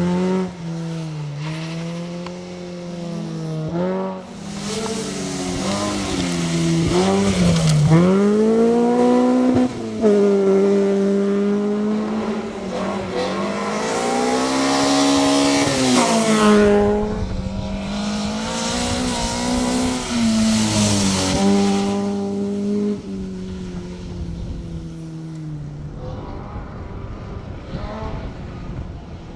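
Mk2 Ford Escort rally car's Toyota 2.0-litre BEAMS four-cylinder engine driven hard, its pitch climbing and dropping repeatedly through gear changes and lifts, with spells of tyre noise; the engine fades away in the last few seconds.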